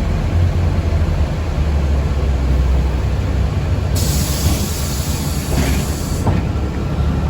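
Steady low rumble inside a city bus or trolleybus, with a sharp hiss of released compressed air from the pneumatic brakes or doors starting about four seconds in and cutting off about two seconds later.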